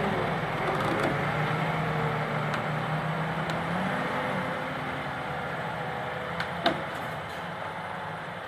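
Heavy truck engine running, slowly getting quieter, with one sharp click or knock about seven seconds in.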